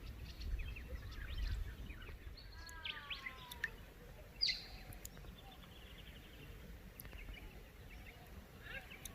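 Several birds calling and chirping, with a run of falling notes about three seconds in and a sharp, high falling call a moment later.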